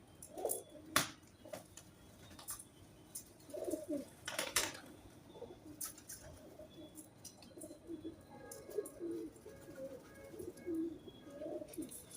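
Birds cooing again and again, with a few sharp taps scattered through, the loudest about a second in and about four and a half seconds in.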